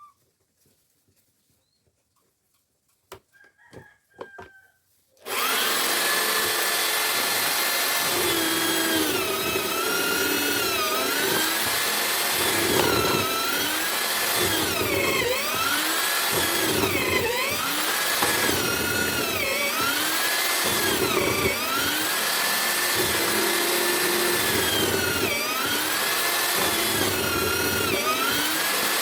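A few light knocks, then about five seconds in a homemade drill-driven chisel mortiser starts up and runs loudly. Its whine dips in pitch and recovers every second or two, the motor bogging as the chisel is worked into the wood.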